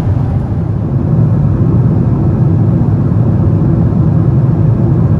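Steady low rumble of a Boeing 777-300ER economy cabin in cruise: airflow and engine noise filling the cabin, getting slightly louder about a second in.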